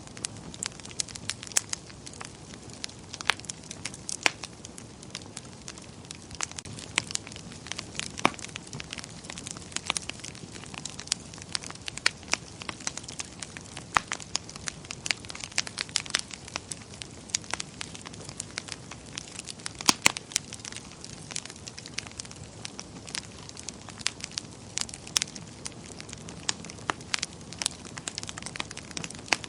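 Wood fire burning in a fireplace, with frequent sharp crackles and pops over a low steady rumble of flame; two of the loudest pops come close together about two-thirds of the way through.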